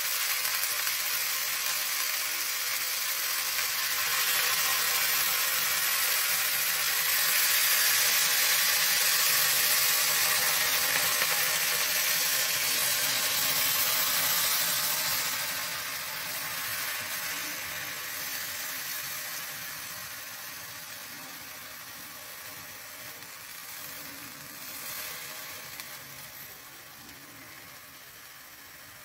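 Chicken leg quarters frying in a pan with soy sauce just added, sizzling steadily; the sizzle grows loudest in the first half and then fades gradually over the second half.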